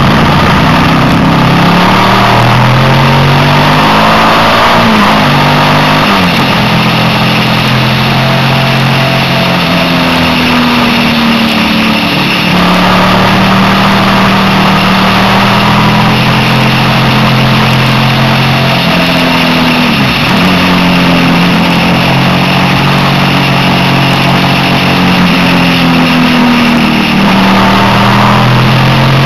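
Suzuki SV650's V-twin engine running hard on a twisty road, its pitch climbing and then dropping again and again with throttle and gear changes, over steady wind noise on the microphone.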